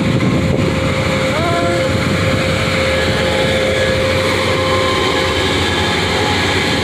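Amtrak train hauled by an EMD F59PHI diesel locomotive running loud and steady as it pulls out of the station, with a held steady tone over the engine noise.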